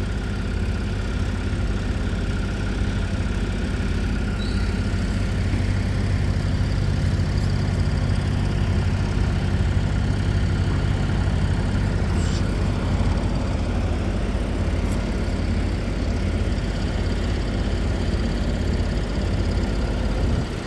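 A large engine running steadily at idle, a constant low rumble.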